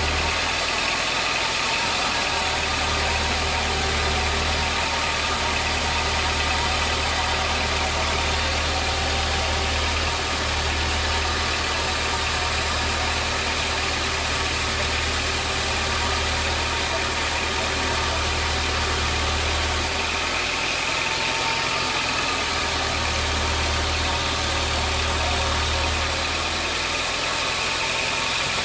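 Sawmill machinery running steadily, with a low hum that drops out and comes back several times.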